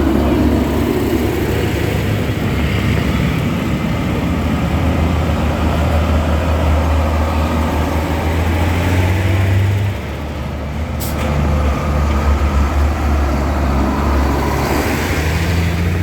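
Tractor engine running with a steady low drone, dropping in loudness about ten seconds in and then picking up again. A brief sharp click cuts through about eleven seconds in.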